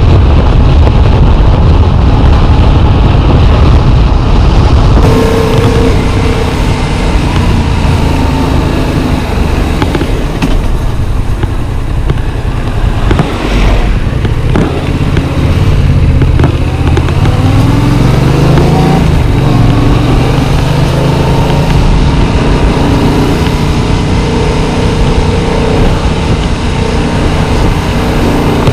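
Yamaha MT-07's 689 cc parallel-twin engine running on the road under a rider's chest-mounted camera, with heavy low rumble and wind noise at first. About halfway through the revs climb in a rising whine as the bike accelerates, then settle into a steady cruise.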